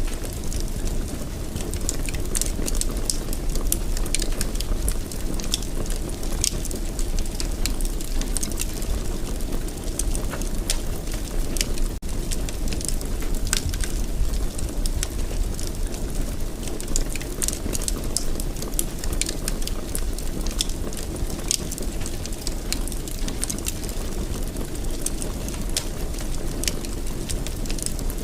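Wood fire burning steadily in a fireplace, with a low rumble of flame and frequent irregular sharp crackles and pops.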